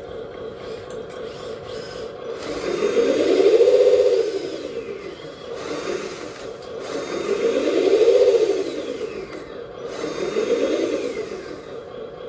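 Electric motor and metal gearing of a LESU 1/14 hydraulic RC dump truck whining. The motor speeds up and slows back down three times, its whine rising and falling in pitch with each throttle swell, over a steady lower hum.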